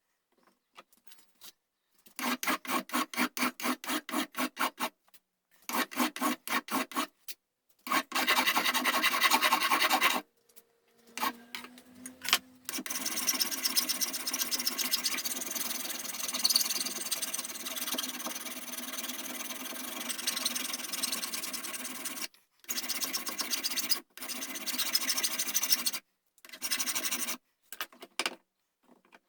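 Rasping of the wooden gunstock by hand, in bursts of rapid back-and-forth strokes with a longer unbroken run in the middle, as the buttstock is shaped.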